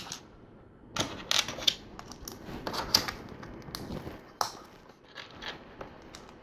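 Plastic LEGO bricks clicking and clattering as pieces are picked up, sorted and snapped together, in a string of irregular sharp clicks.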